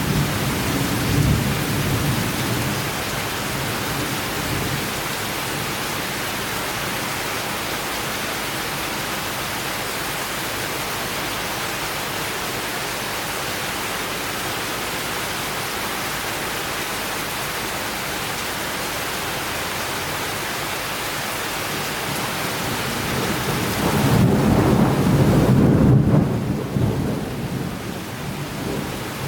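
Steady rain of a summer thunderstorm. A low roll of thunder dies away in the first few seconds, and another rumbles up and lasts several seconds near the end.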